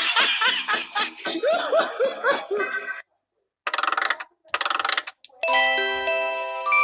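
Samsung Galaxy phone ringtones playing one after another. A tone of quick, bouncing chirps stops about three seconds in. After a short gap come two brief buzzing bursts, and then a chiming melody of sustained ringing notes begins.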